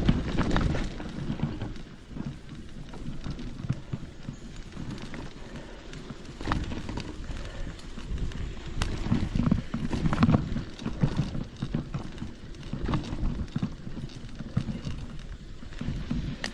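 A hiker's footsteps on a forest trail: an uneven run of crunching, knocking steps, with wind rumbling on the microphone at the start.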